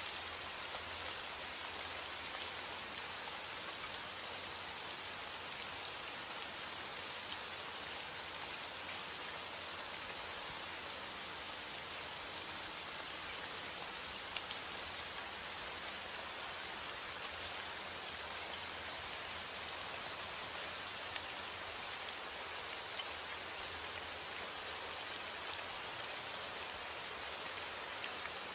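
Steady heavy rain falling, with the patter of individual drops striking a surface.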